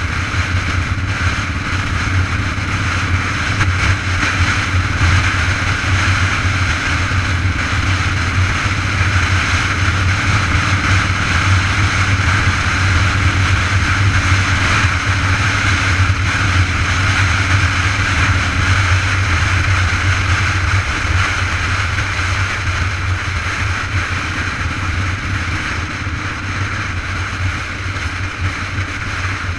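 Steady rushing noise of a bicycle in motion on the road: wind on the microphone with a constant low rumble.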